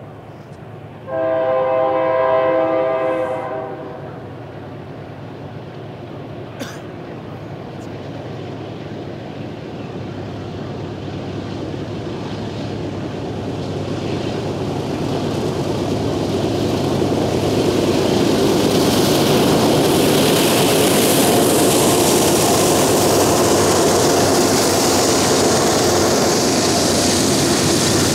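Freight train's diesel locomotive horn sounds one long blast about a second in. The train's rumble then builds steadily as it approaches and passes, ending with the wheels of coal hopper cars running along the rails.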